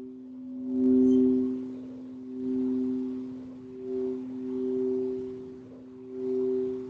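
Singing bowls ringing in two steady, sustained tones, one lower and one a little higher, that swell and fade about five times as they are played.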